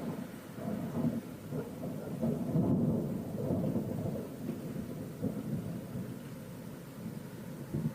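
Rolling thunder rumbling low and continuously, swelling about a second in, loudest around three seconds in, then slowly fading.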